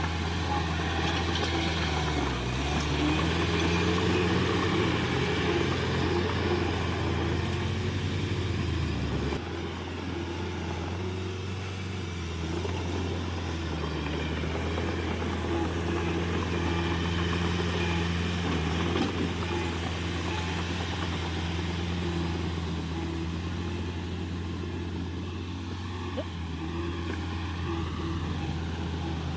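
Diesel engines of heavy earthmoving machinery, dump trucks and a bulldozer, running steadily, their pitch dipping and rising as they work. The sound drops and shifts abruptly about nine seconds in.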